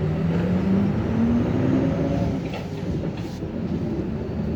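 City bus's diesel engine accelerating away from a stop, heard inside the passenger cabin: the engine note rises steadily over the first two seconds or so, then settles into a low running rumble.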